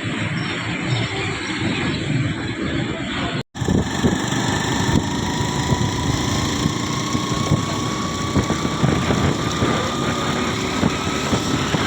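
Road vehicle running: a steady rumble and noise with many small knocks. A brief edit cut breaks it about three and a half seconds in. After the cut a faint whine rises slowly in pitch.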